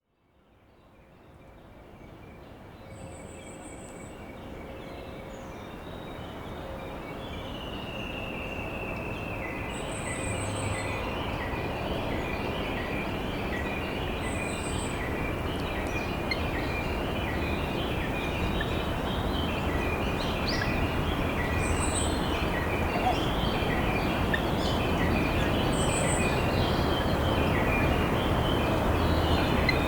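Steady rush of a flowing river, fading in from silence over the first several seconds, with wild songbirds calling through it in quick runs of short repeated notes. A short, high, buzzy trill sounds every few seconds.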